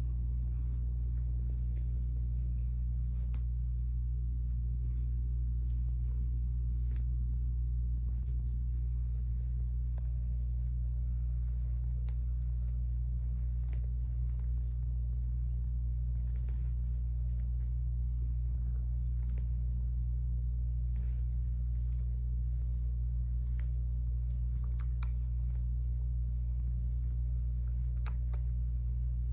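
A steady low rumbling hum with faint scattered ticks.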